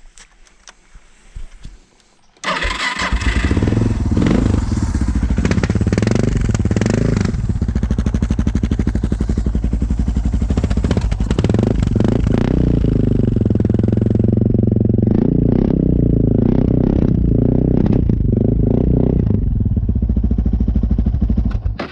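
Suzuki DR650's single-cylinder four-stroke engine starting about two seconds in and running loud through a LEXX slip-on exhaust with its baffle (spark arrestor insert) removed, revved up and down several times before it shuts off at the end.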